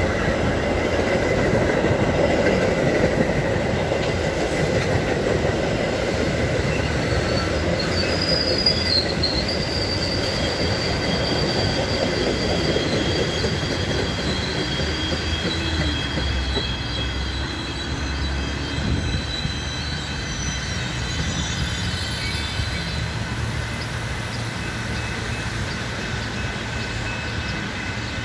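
Metra commuter train with an EMD F59PHI diesel locomotive rolling along the station track, a heavy rumble that slowly fades. High steady wheel squeal sets in about a third of the way through and dies away near the end.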